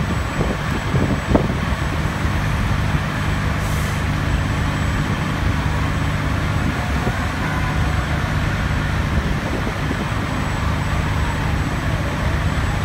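Fire trucks and other heavy emergency vehicles rolling by in a convoy, their diesel engines running steadily, with a brief air-brake hiss about four seconds in. Near the end a faint siren glides down and then rises.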